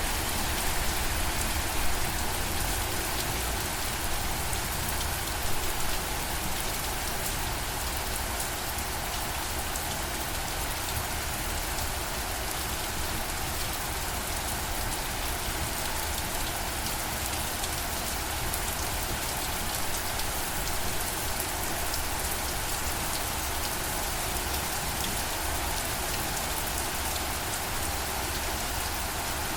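Steady rain falling on a surface, with fine drop patter over a low rumble and a couple of slightly louder swells in the first few seconds.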